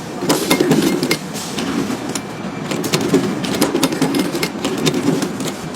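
Computerized sock knitting machines running, a continuous mechanical clatter of rapid irregular clicks over a steady hum.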